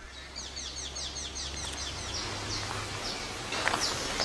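Bird chirping outdoors: a quick run of short, high, falling chirps, about five a second, then a few single chirps near the end, over a low steady background hum.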